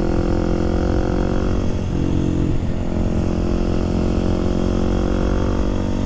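Kawasaki KLX300SM supermoto's single-cylinder four-stroke engine running steadily while riding, with a brief change in engine note about two seconds in.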